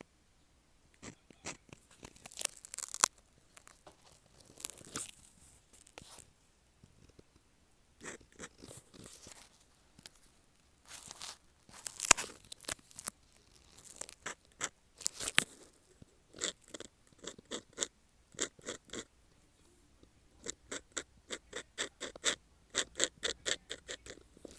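Metal nib of a dip pen scratching across paper in short strokes, in scattered clusters, then a quick run of short repeated strokes, about four or five a second, near the end.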